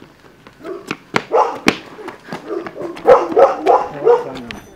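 A dog barking repeatedly, about eight short barks in a loose run, with a few sharp knocks between the barks early on.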